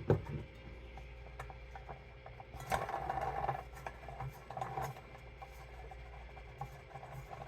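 Metal bird-feeder parts being screwed together by hand, a threaded rod turning into a metal plate: faint scraping and small clicks, with a louder rubbing stretch about three seconds in and a shorter one about five seconds in.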